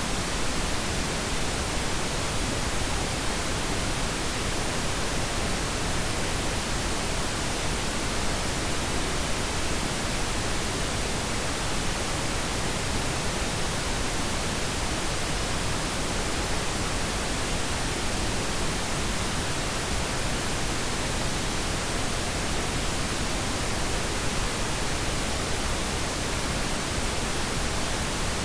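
Pink noise: a steady, even hiss across all pitches, with no changes or events.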